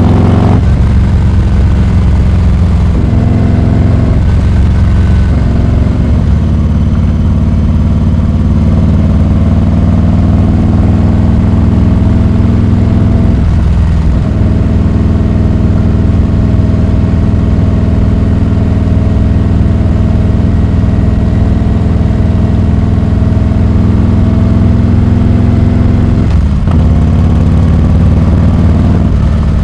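Harley-Davidson Heritage Classic 114's Milwaukee-Eight V-twin running through a Rinehart exhaust, holding a steady, even pitch, with brief dips a few times: near the start, about fourteen seconds in and near the end.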